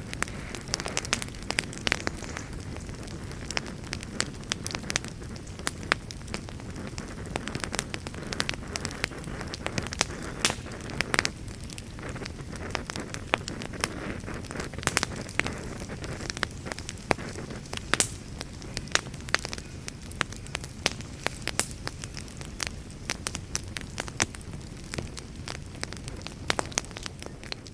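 Wood campfire burning: a steady low rush of flames with frequent sharp, irregular crackles and pops.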